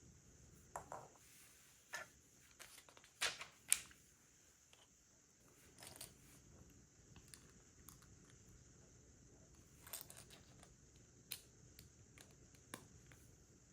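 Plastic Lego pieces being handled and pressed together: scattered small clicks and snaps, the sharpest two coming close together a little over three seconds in.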